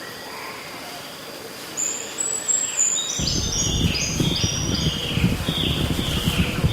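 A bird singing a run of quick descending high notes repeated over and over. About three seconds in, a loud low rumbling noise starts suddenly underneath it.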